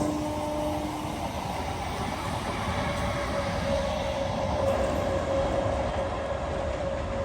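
Passenger train running past on the line: a steady rumble with a steady hum. One hum fades out about a second in, and another comes in a few seconds later.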